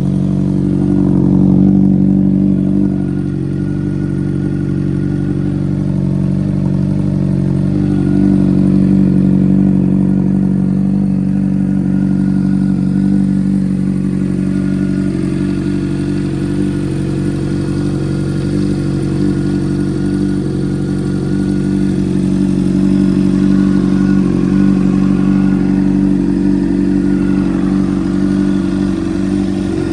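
2013 Honda CBR600RR's inline-four running steadily at idle through an aftermarket Toce exhaust, the engine speed rising slightly twice, near the start and about a third of the way in.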